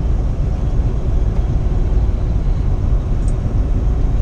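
Steady low engine and road rumble inside the cab of a 2015 Kenworth T680 semi truck, with a faint short tick about three seconds in.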